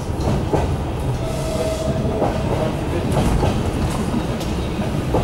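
Suburban passenger train running along the line, heard from inside the carriage: a steady rumble of wheels on rails with occasional clicks as the wheels cross rail joints.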